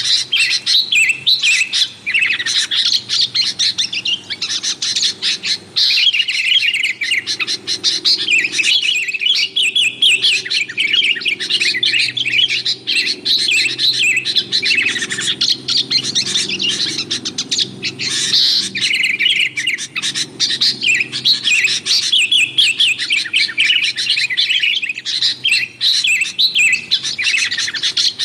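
Kutilang (sooty-headed bulbul) calling noisily in a dense, nonstop run of quick chirps. It is a lure call for attracting wild kutilang.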